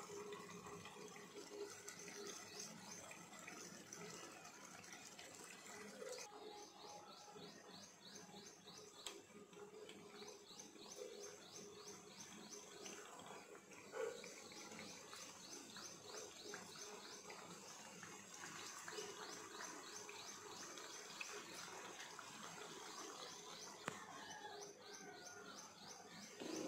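Faint background chirping of a small bird: rapid runs of high, evenly repeated chirps lasting several seconds at a time, with a soft knock about fourteen seconds in.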